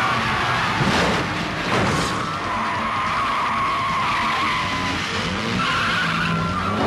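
Car tyres squealing in long, wavering skids with engines running, and two sharp noises about one and two seconds in.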